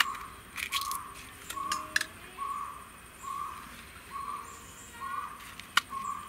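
A bird in the background repeats one short note about every 0.8 seconds. Over it come small sharp clicks and taps as a knife slits green chillies and the pieces drop into an aluminium pressure cooker, with one louder tap near the end.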